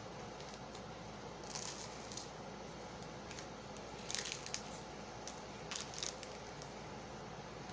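A person biting and chewing a chocolate protein wafer bar: scattered short, soft crunches and wet mouth sounds every second or two over a steady background hiss.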